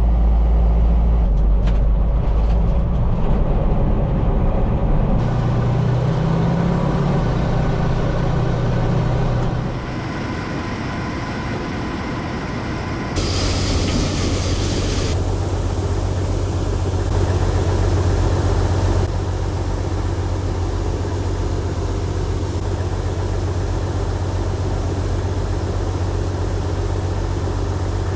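Heavy diesel engines of harvest machinery and trucks running steadily. The sound changes abruptly several times from one engine to another, with a short burst of hiss about 13 seconds in.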